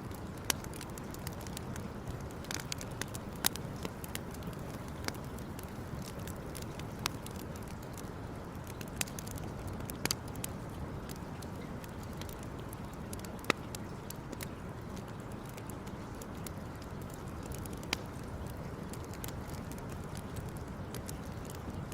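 Campfire burning and crackling, with scattered sharp pops and snaps every second or so over a steady low rumble.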